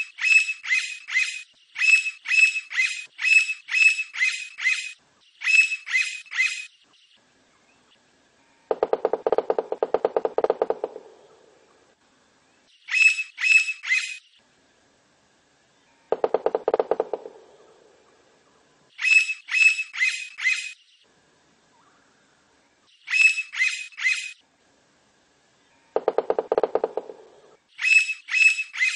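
Blond-crested woodpecker calling in short series of loud, high, evenly repeated notes, several series in a row. Three times the notes give way to a lower, very fast rattle lasting about a second and a half.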